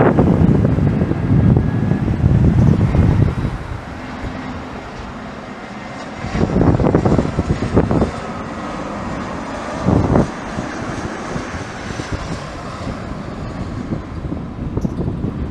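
Jet airliner engines on landing: a low rumble, loudest for the first few seconds and then fading, with a faint high turbine whine, and gusts of wind buffeting the microphone.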